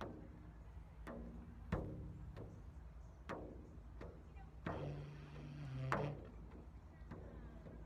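Sparse improvised string music: single plucked notes about a second apart, each ringing out and fading, with a held low note around five seconds in.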